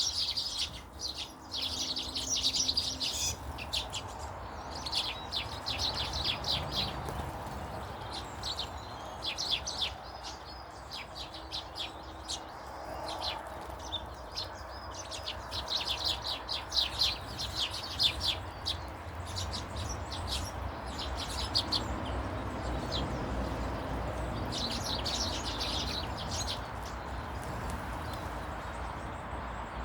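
Small birds chirping in repeated bursts of quick, high chirps every few seconds over a low background rumble.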